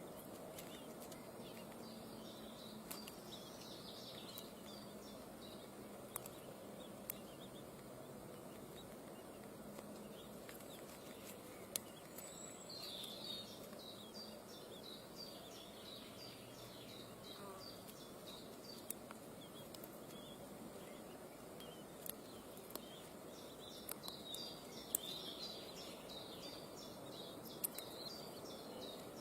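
Faint, high, short bird chirps repeated in three bouts over a steady low background, with a few sharp clicks.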